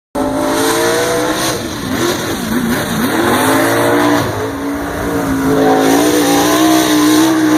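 Mud-bogging vehicle's engine at high revs under hard throttle, its pitch dipping and climbing again several times, then holding high toward the end.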